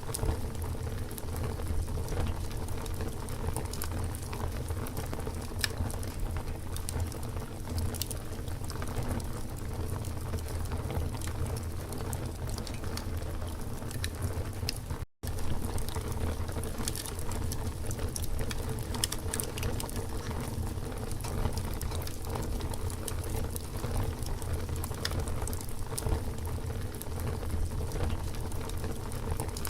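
Wood campfire crackling: a steady low rumble and hiss of burning, dotted with frequent sharp pops and snaps. The sound cuts out for an instant about halfway through.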